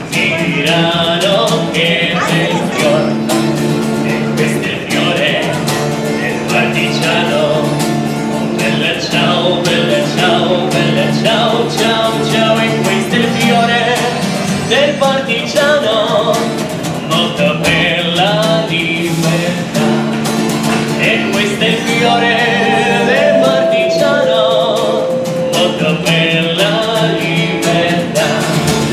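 A street singer's song running on: a voice singing over steady instrumental accompaniment with held low chords.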